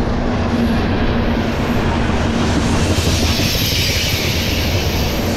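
Freight cars of a passing CSX freight train rolling by at close range, gondolas then tank cars: a steady, loud rumble and clatter of steel wheels on rail. A faint steady hum runs through the first half, and a brighter hiss of wheel noise comes up about three seconds in.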